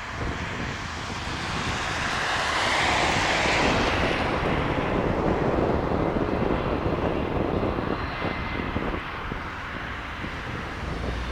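Four-engine turbofan jet engines of a C-17 Globemaster III transport running on the ground. They swell to their loudest about three to four seconds in, with a whine falling in pitch, then ease to a steadier, quieter rumble.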